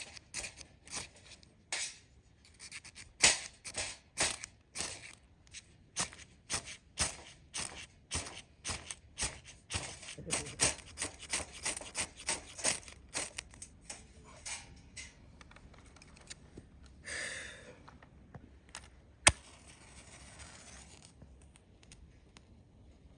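Folding hand saw cutting through wood in steady strokes, about two a second, which slow and die away after about 14 seconds. A sharp click follows a few seconds later.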